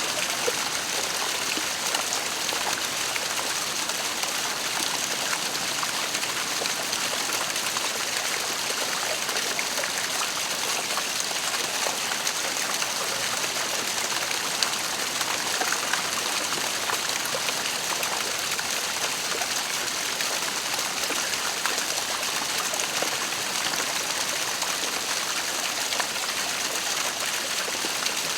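Waterfall: water falling and splashing in a steady, unbroken rush, with faint scattered drips and splashes.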